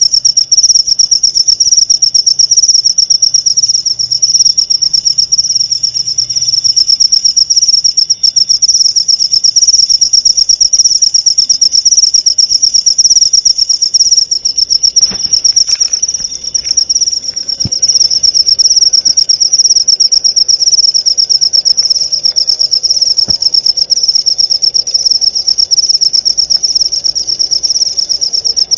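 Cricket singing in one long, unbroken trill: a loud, high, rapidly pulsing chirp that never pauses.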